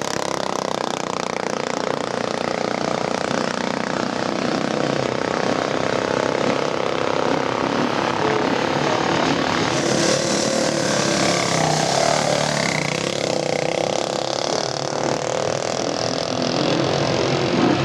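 Motorcycle engines running and revving, their pitch rising and falling for a few seconds midway.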